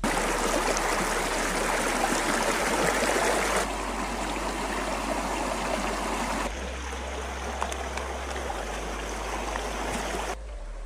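Rushing stream water, a steady loud hiss and splash heard in three segments that cut abruptly from one to the next.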